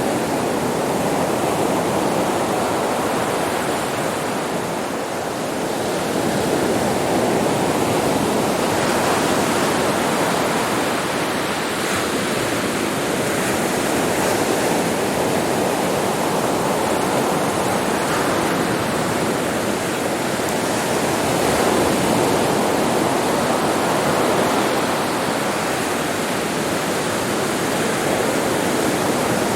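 Sea surf breaking and washing onto a beach: a continuous rush of water that swells and eases slowly every few seconds.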